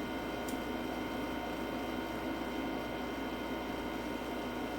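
Steady room tone: a low electrical hum under a soft hiss, with one faint click about half a second in.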